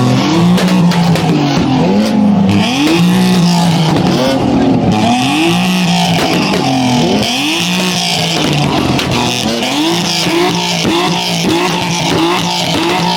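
Car engine revving hard over and over in quick rising sweeps, about two a second near the end, with tyre squeal from spinning wheels, typical of a burnout.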